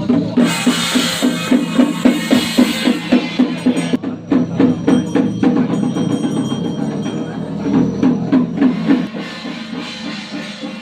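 Chinese temple percussion: a drum beaten in a fast, even rhythm of about four to five strokes a second. Crashing cymbals join in during the first few seconds. The playing thins out a little near the end.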